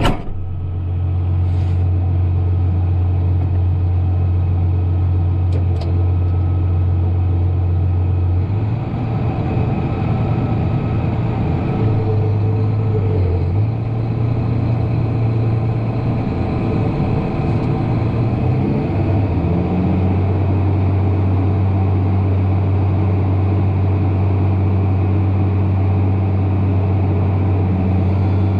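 Tractor diesel engine running steadily at a constant low drone; its note wavers and shifts from about a third of the way in until past the middle, then settles to a steady pitch again. Two brief clicks sound near the start.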